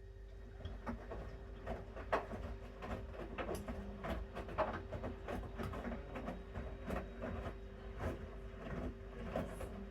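Bosch Series 6 front-loading washing machine in its main wash: the drum turns with a steady hum while the wet laundry tumbles and splashes in irregular soft knocks, starting about a second in.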